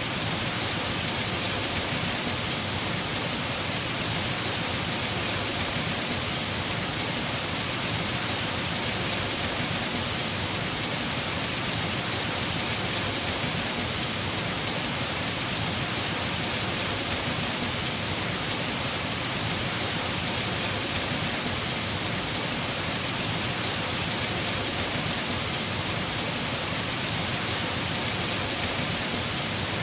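Heavy rain falling steadily on a house roof: a dense, even hiss of drops.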